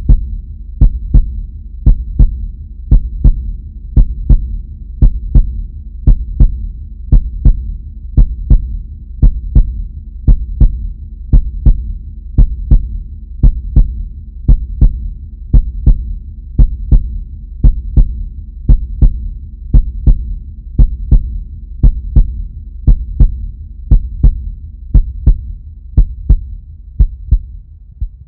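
Heartbeat sound effect: a steady double beat, lub-dub, about once a second, over a low steady hum; the last beats are weaker near the end.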